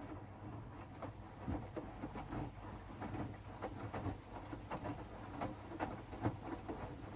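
Hoover DXOA610AHFN-80 washing machine drum turning mid-wash. Wet bed linen tumbles with irregular soft knocks and clicks over a low steady motor hum.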